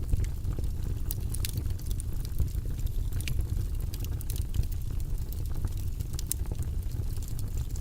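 Wood fire crackling, with sharp pops scattered over a steady low rumble.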